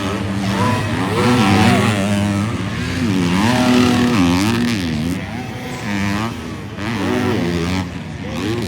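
Several 250-class motocross bikes racing past, their engines revving up and falling off again and again as riders work the throttle and shift gears.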